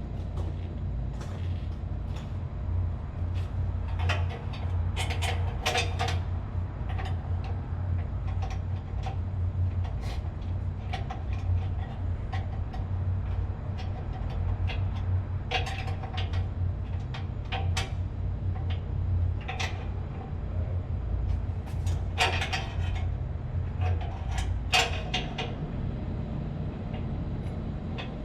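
Scattered metal clanks and taps, some ringing briefly, as tools and a copper rod work against the electric motor and its steel base during alignment. Under them runs a steady low machinery hum.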